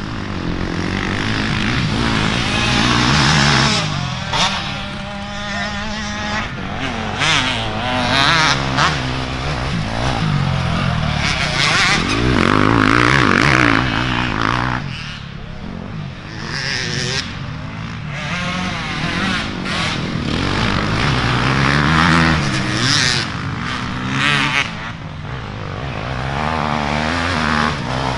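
Dirt bike engines revving up and backing off again and again, their pitch rising and falling with the throttle.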